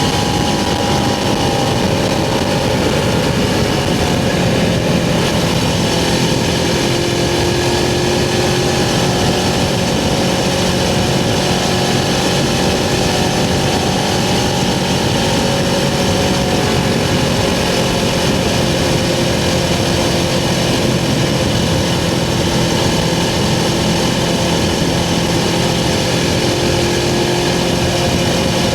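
Suzuki GS500's air-cooled parallel-twin engine running at a steady cruise, with road and wind noise mixed in.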